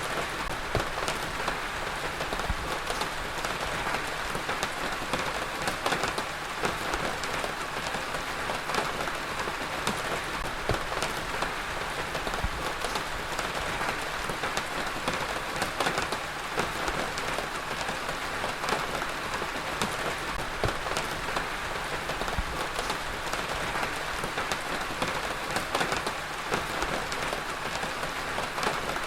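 Heavy rain falling steadily and pattering on a surface, a dense even hiss with many close drop impacts.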